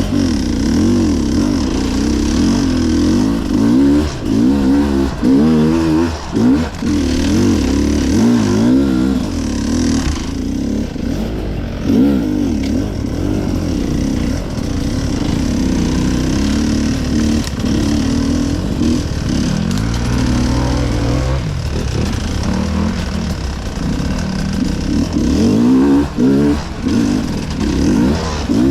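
Enduro dirt bike engine revving up and down with constant throttle changes, its pitch rising and falling every second or two as it is ridden over rough trail.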